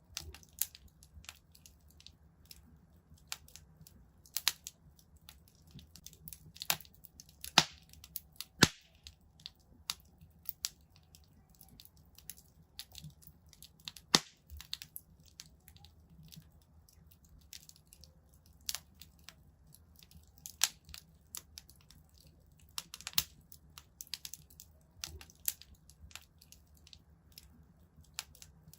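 Wood fire burning in a fireplace, crackling with irregular snaps and pops over a faint low rumble; a few pops are much sharper, about seven and a half, eight and a half and fourteen seconds in.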